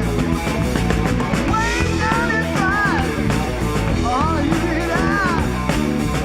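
Rock band playing live: electric guitar, bass and drums, with a high lead line bending up and down in pitch over them.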